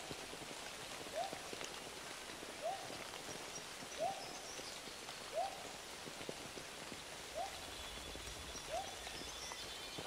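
A bird repeating a single short hooting note, rising then falling, about every one and a half seconds, over a faint steady hiss of woodland ambience. A few faint high chirps sound in the background.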